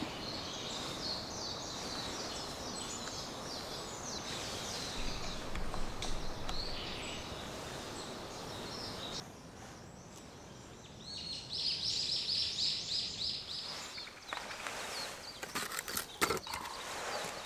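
Outdoor ambience: a steady background hiss with birds singing in quick high trills, loudest about two-thirds of the way through. The level drops suddenly about nine seconds in, and a few sharp clicks come near the end.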